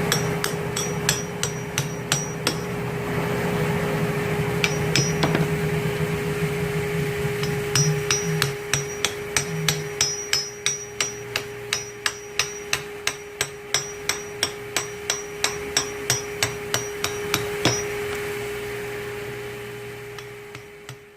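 Hammer tapping a flat blade wedged at the edge of a 13B rotary engine's oil pan to break its silicone seal: sharp metallic strikes with a ringing note, scattered at first, then about two a second for roughly ten seconds, over a steady hum; the sound fades out at the end.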